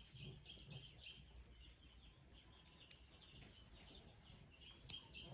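Near silence, with faint, repeated bird chirps in the background.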